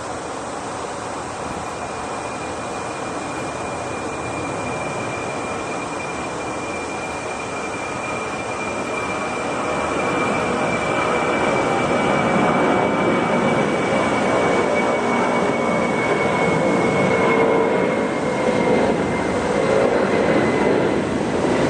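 Jet airliner's engines at takeoff power, a steady noise that grows louder about halfway through, with a high whine slowly falling in pitch as it passes.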